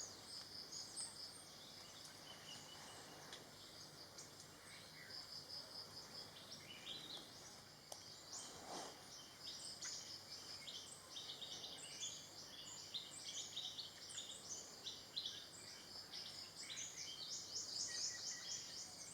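Faint chorus of small forest birds: high-pitched chirps and quick trills of repeated notes, growing busier toward the end.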